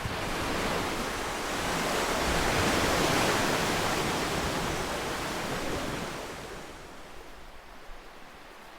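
Ocean waves: one wave surges in and swells to its loudest about three seconds in, then dies away to a softer hiss from about six seconds in.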